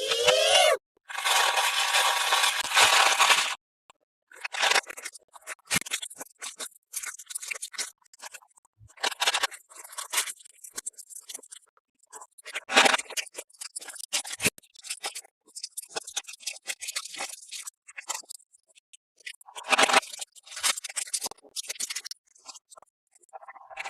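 Toy packaging being handled and opened: a loud, dense tearing or rustling stretch in the first three seconds or so, then scattered plastic crinkles, rustles and small clicks with short pauses between.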